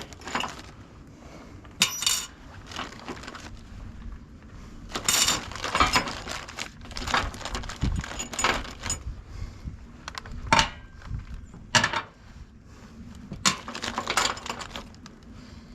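Metal hardware being handled: steel bolts, nuts and washers clinking against each other and against metal, in scattered sharp clinks and knocks at irregular moments.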